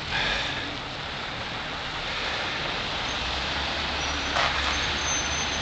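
Road traffic at a city intersection: a steady hum of vehicle engines and tyres, with a faint high whine in the second half.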